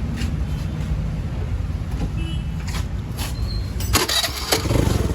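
Honda Activa 110 scooter's single-cylinder four-stroke engine idling steadily, with a few short clicks about four seconds in.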